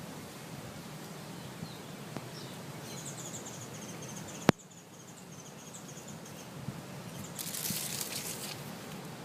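Outdoor ambience: birds chirping high over a steady background hiss. A single sharp click comes about halfway through, and a brief loud rasp comes near the end.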